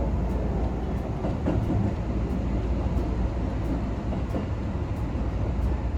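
Steady low rumble of a moving vehicle running along, with no distinct knocks or changes.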